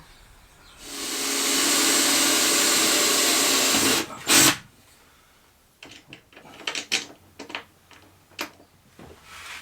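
A small electric motor whirs up about a second in, runs steadily for about three seconds and cuts off suddenly. A short loud burst follows, then a scatter of light clicks and knocks as someone handles things.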